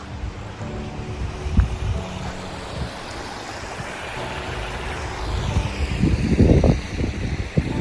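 Steady rush of surf and wind, with heavy wind buffeting on the microphone over the last couple of seconds. Faint background music with held notes runs underneath.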